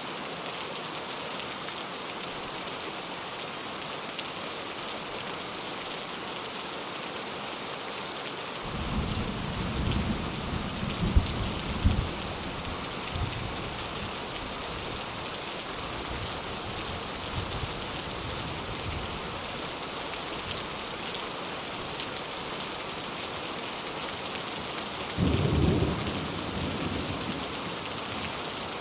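Steady rain falling, a continuous even hiss. Thunder rumbles about a third of the way in, with two sharp cracks, and rumbles again briefly near the end.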